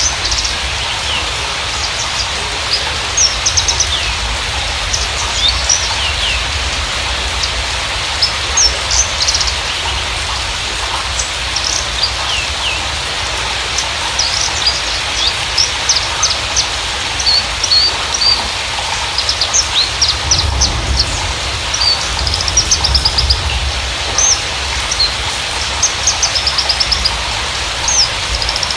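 Javan bushlark (Mirafra javanica parva) singing: a lively string of short high chirps and quick trills, scattered throughout, over a steady hiss.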